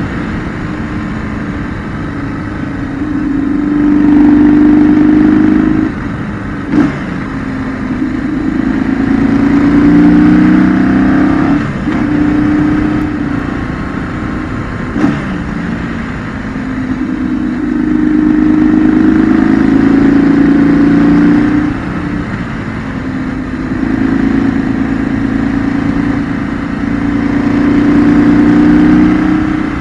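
A 2008 BMW R1200GS's air/oil-cooled flat-twin boxer engine heard onboard while riding, pulling louder under throttle four times for a few seconds each and falling back between as the throttle closes. Two short sharp knocks stand out, one about seven seconds in and one about fifteen seconds in.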